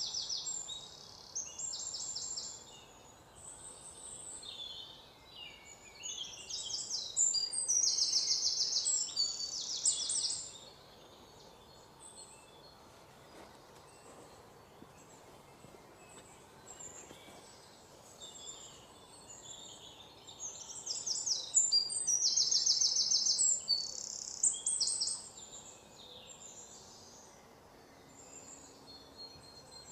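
Several birds chirping and singing quick trills, with the calls loudest in two spells, one a quarter of the way in and one again past two-thirds, over a faint steady outdoor background.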